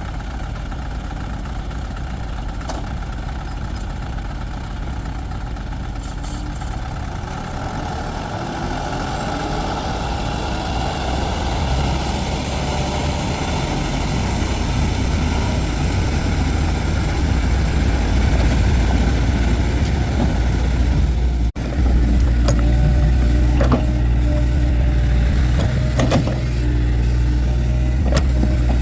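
A heavy vehicle's engine running steadily and growing louder through the first half. After a brief break about two-thirds of the way in, it runs on with a steady low hum and a few sharp clicks.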